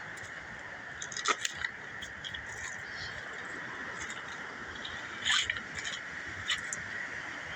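Loose river stones clicking and scraping together in a few short sharp knocks, over a steady background hiss.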